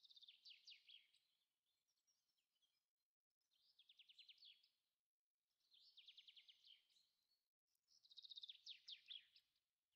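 Faint bird song: a small songbird sings four short phrases of rapid, repeated down-slurred notes, each phrase about a second long with brief pauses between.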